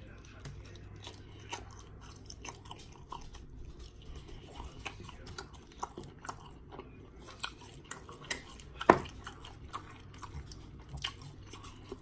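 Close-miked chewing and smacking on pork ribs, with many small mouth clicks and one sharper, louder click about nine seconds in.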